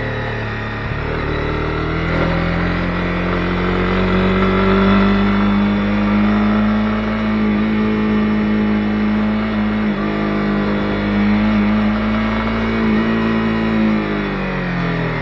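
Honda CB250R's single-cylinder engine under way: it climbs in revs over the first few seconds, holds a steady pitch, then drops as the throttle closes near the end.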